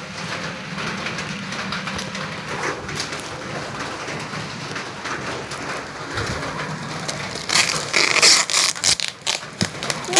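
Rustling and crinkling of plastic packaging being handled over a steady low hum, with the loudest, sharpest crinkling near the end.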